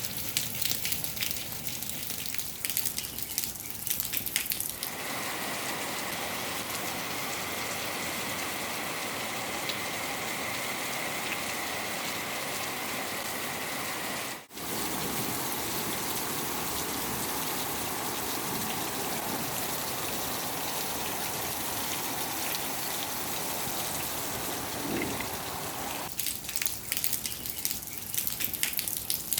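Rain falling, a steady hiss of rain through the middle with a patter of drops and drips in the first few seconds and again near the end. The sound breaks off briefly about halfway and resumes.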